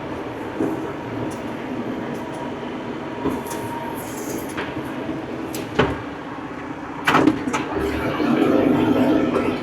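Old tractor's engine running steadily, with a few sharp knocks about six and seven seconds in and a louder, rougher stretch near the end.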